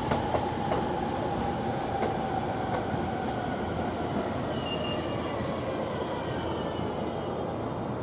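A JR East E231-series electric train moving on the track, with a thin wheel squeal that fades out about three seconds in and a few sharp clicks of wheels over rail joints.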